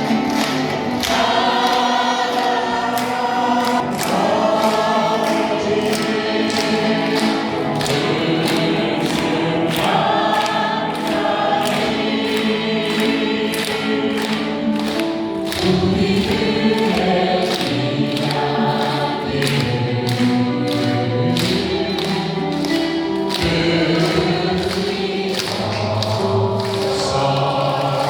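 Voices singing a Korean song together in harmony, over accompaniment with a steady rhythmic beat.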